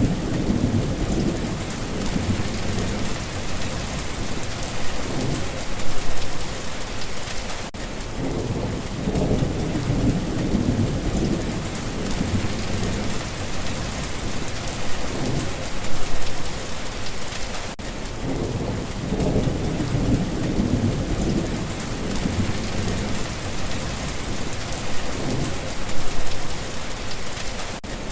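Steady heavy rain hissing, with low rumbles of thunder swelling and fading underneath. The loudest swells come about every ten seconds, each just after a split-second dropout, as a short loop repeating.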